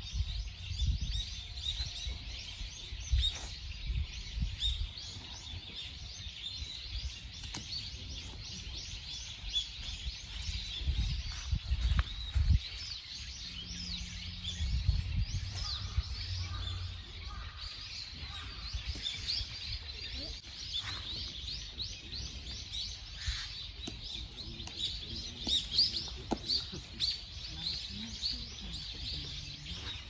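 Many small birds chirping and twittering continuously in a dense chorus of short high notes, over an uneven low rumble that is heavier in the first half.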